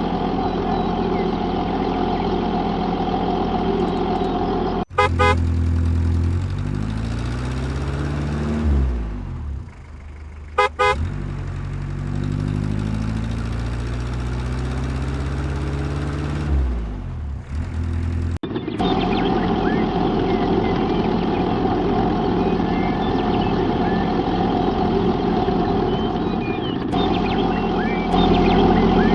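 Small motors of miniature construction vehicles running. In a middle stretch the pitch falls and rises several times, with two short beeping bursts, and the sound changes abruptly between sections.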